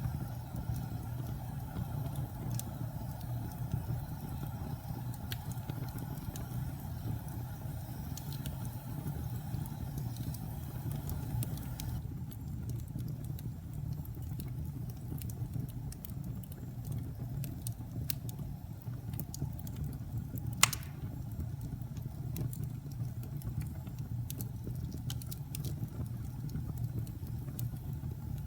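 Log fire burning in a fireplace: a steady low rumble of flames with scattered small crackles, and one sharp loud pop about two-thirds of the way through.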